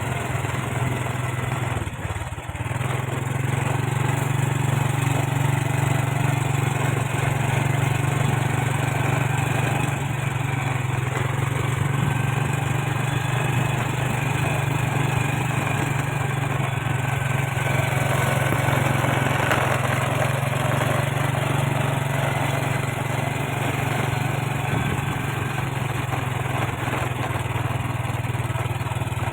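A vehicle engine running at a steady cruising speed while travelling on the road, a constant low drone with road and wind noise. It dips briefly about two seconds in.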